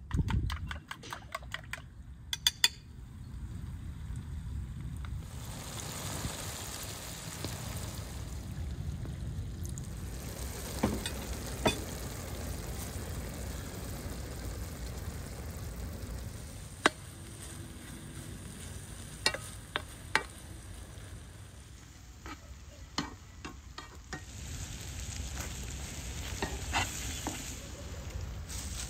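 Beef brains in a sauce cooking in a frying pan over a campfire, sizzling and bubbling steadily, with a few sharp knocks along the way.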